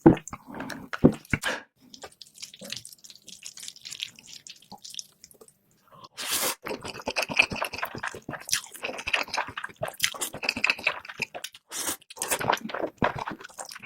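Close-miked wet eating sounds sped up to double speed: quick smacking, chewing and slurping clicks, with a brief break about six seconds in.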